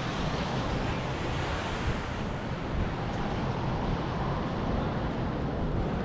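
Blizzard wind buffeting the microphone: a steady rushing noise, heaviest in the low end.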